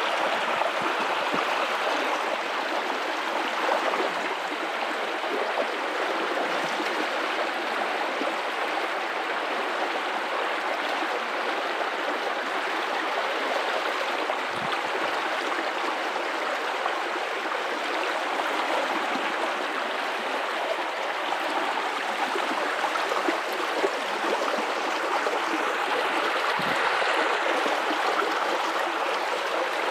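River water running over rocks in a steady rush with gurgling.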